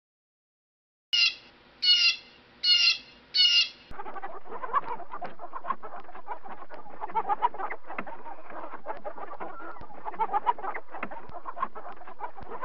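Four short, high-pitched calls about a second in, then a flock of chickens clucking together in a dense, continuous chatter that cuts off suddenly at the end.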